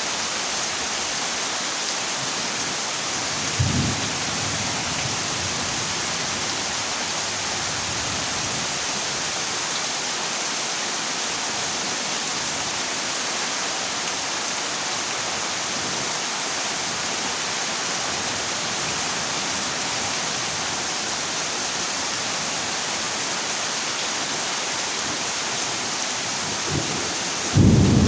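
Heavy rain falling steadily on a corrugated zinc roof, with a short low thunderclap about four seconds in and a louder rumble of thunder breaking at the very end.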